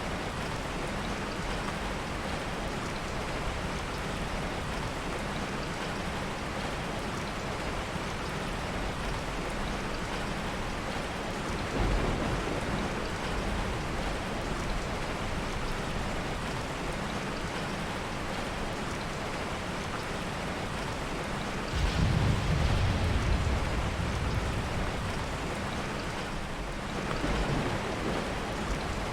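Heavy rain falling steadily, with low rumbles of soft thunder rolling in three times: briefly about twelve seconds in, loudest and longest a little past two-thirds of the way, and again near the end.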